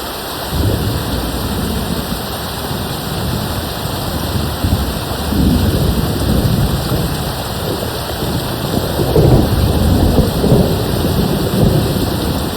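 Steady rain with a long, low rumble of distant thunder that sets in about half a second in and swells, loudest a little past the middle.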